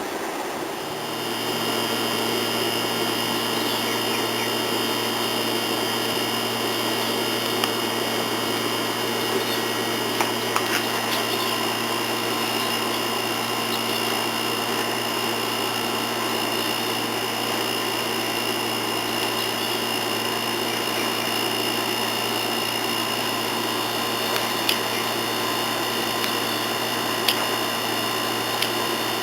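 Small electric power tool's motor running steadily, coming up to speed about a second in, with a few faint ticks over it.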